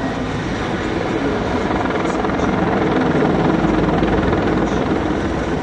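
Mi-24 attack helicopter flying a display, its rotor and turbine engines running as a steady, dense rumble that grows a little louder in the middle.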